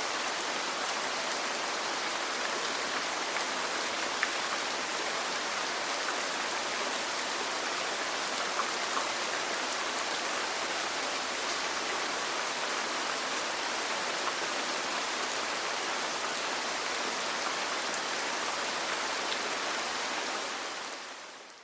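Steady rain falling on a roof, an even hiss with a few single drops ticking through it, fading out at the very end.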